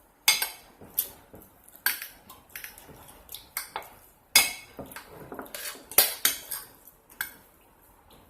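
Cutlery clinking and scraping against dishware while eating: a dozen or so sharp, irregular clinks, dying away near the end.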